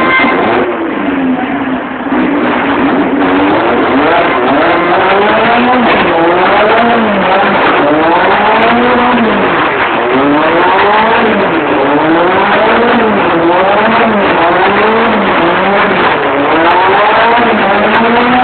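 Car engine revving hard, its revs swinging up and down every couple of seconds, as a car is held in a slide.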